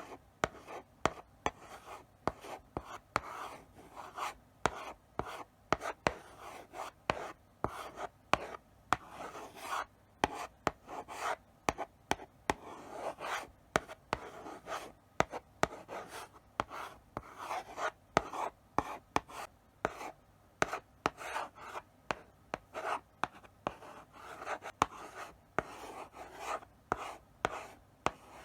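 Chalk writing slowly on a blackboard: short scratchy strokes with sharp taps as the chalk meets the board, in an uneven steady run.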